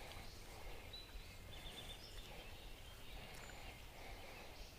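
Quiet outdoor ambience at a pond: a steady low rumble with a few faint, short bird chirps now and then.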